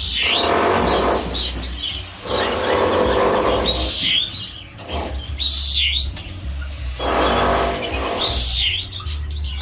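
Birds chirping in short, repeated calls that sweep up and down in pitch, over a steady low hum.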